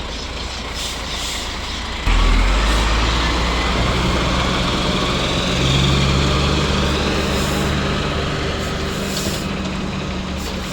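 Heavy truck engine running, with a constant hiss over it; about two seconds in it suddenly gets louder and deeper, as under load, then holds steady and eases off slowly.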